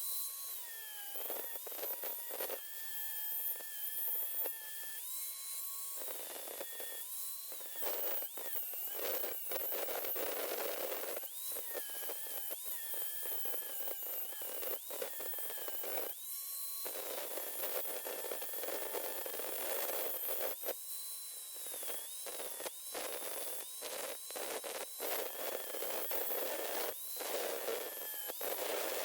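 A high-speed electric grinder working metal in repeated on-and-off passes. Its whine sags a little in pitch as it bites, over a gritty grinding hiss.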